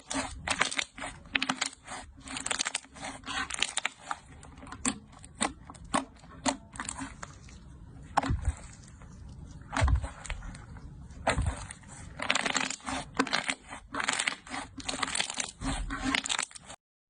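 Slime being squeezed and poked by hand, giving a dense run of irregular clicks, pops and crackles in bursts with short lulls. The sound breaks off abruptly just before the end.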